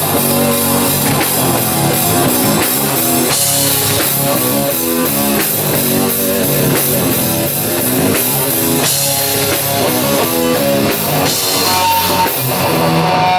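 A rock band playing live: distorted electric guitar, bass and a full drum kit with steady beats. There is no singing.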